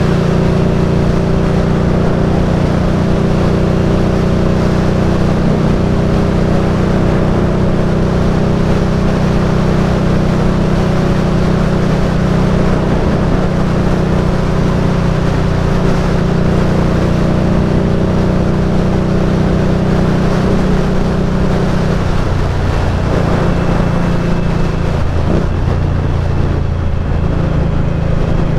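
Indian Scout Bobber's liquid-cooled V-twin engine running under way at a steady cruising speed, with wind and road noise. The engine note drops about three-quarters of the way through and rises again near the end.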